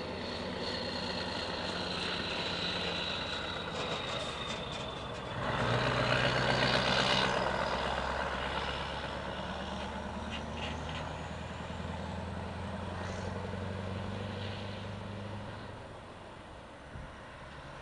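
Scania 143's 14-litre V8 diesel, fitted with an open exhaust pipe, running with a deep drone. It swells loudly about five seconds in, holds, then dies away near the end.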